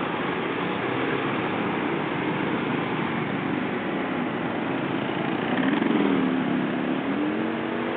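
Motorbike traffic: steady engine and road noise, with one engine coming up louder about six seconds in, its pitch dipping and then rising.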